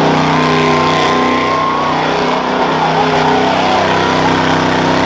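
Modified 1979 Ford F100 rough truck's engine running hard at high revs as it races around the dirt course, loud and fairly steady with small rises and dips in pitch.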